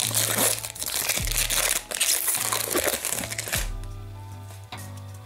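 Crinkling and tearing of a foil trading-card pack wrapper being opened, over background music with a steady bass beat; the crinkling stops about three and a half seconds in, leaving the music.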